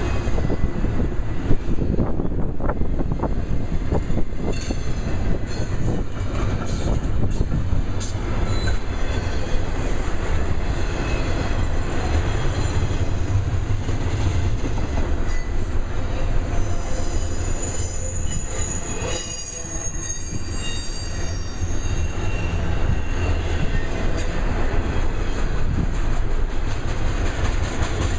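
Double-stack container train rolling past, its cars making a steady low rumble with clicks from the wheels. A high, thin wheel squeal rises for a few seconds about two-thirds of the way through.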